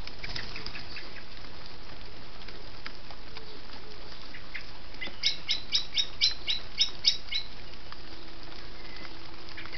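A bird gives a quick run of about nine sharp calls, roughly four a second, starting about halfway through, over a steady background hiss. A few soft flutters come in the first second as the blackbird leaves the bath.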